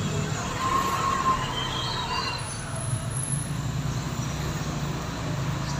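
Steady low rumble of vehicle noise, with brief high squeals about a second and two seconds in.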